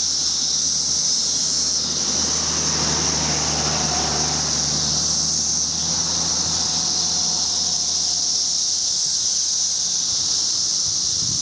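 Chorus of periodical cicadas singing en masse: a loud, steady, high-pitched shrill drone with no break, with a low steady hum underneath.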